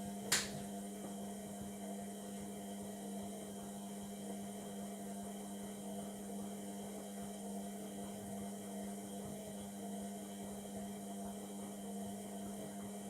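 Indesit MTWC71252WUK washing machine mid-cycle: a sharp click just after the start, then a steady electric hum that holds at one pitch throughout.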